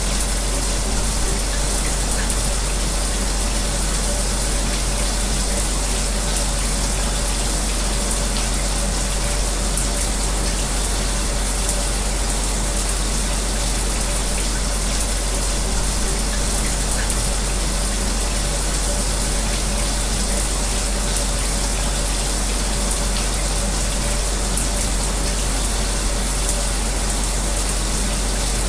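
Shower spray running steadily together with an electric fan, an even, unbroken rush of noise with a faint steady hum under it.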